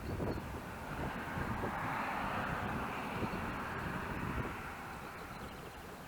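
Wind buffeting the microphone, with a rushing noise that swells about a second in and fades away after about four seconds.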